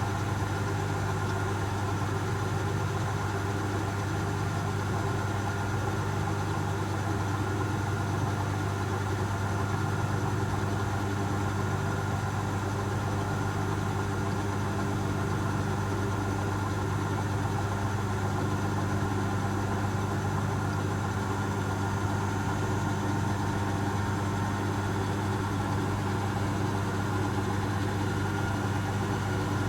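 Asko Quattro W6098X washing machine in its final spin, limited to 1600 rpm: a steady, unchanging machine hum with a strong low tone.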